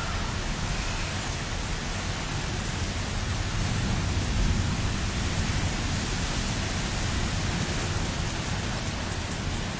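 Distant thunder rumbling on and on under a steady hiss of wind and rain; the low rumble swells a little about halfway through.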